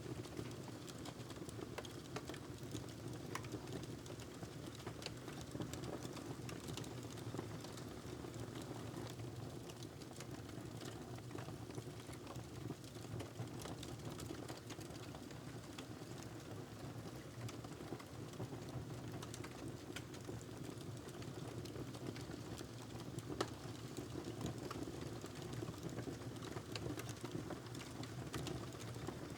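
Wood fire crackling in a fireplace: scattered small pops and snaps over a steady low rumble, with one sharper pop near the end.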